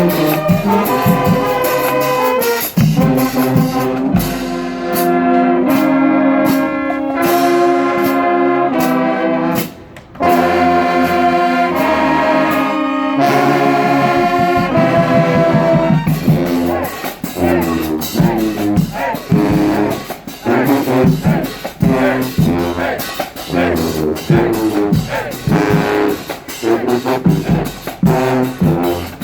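Marching band playing, its brass section leading on trombones and trumpets. Held brass chords break off briefly about a third of the way through. From about halfway, the playing turns to short, punchy notes over sharp percussion hits.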